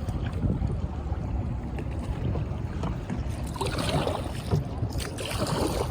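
Kayak paddle strokes in the water, two splashing swishes in the second half, over a steady low rumble.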